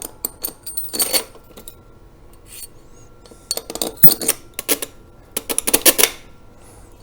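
Metal bolts clinking and rattling against each other and against metal parts as they are handled: clusters of sharp clicks about a second in and again from about three and a half to six seconds in.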